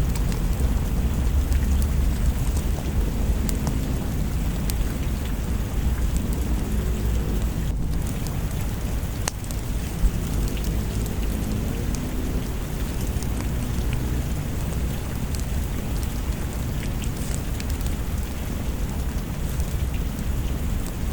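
Steady rain with a continuous low rumble of thunder underneath, dotted with scattered sharp ticks.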